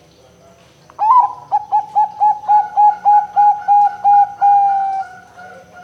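Zebra dove (perkutut) singing its cooing song. It opens with one rising note, runs into about a dozen quick, evenly spaced coos, and ends on a longer drawn-out coo that fades away.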